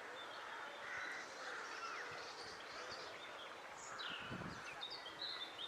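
A colony of crows cawing, many short calls overlapping: agitated birds mobbing an intruder in their territory. A brief low rumble about four seconds in.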